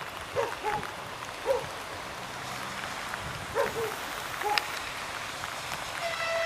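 Steady hiss of rain falling, with a few short pitched chirps about half a second to four and a half seconds in. A steady tone starts near the end.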